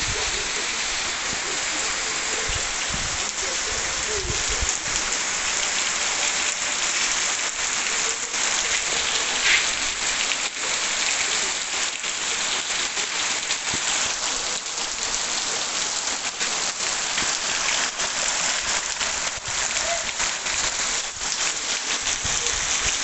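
Heavy rain falling steadily, with frequent sharp ticks of nearby drops striking.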